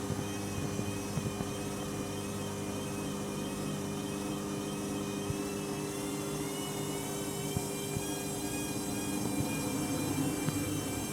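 Candy Grand'O Vita 7kg washing machine on its first spin, with the motor and drum whirring steadily and a faint wavering high whine; the load is fairly balanced.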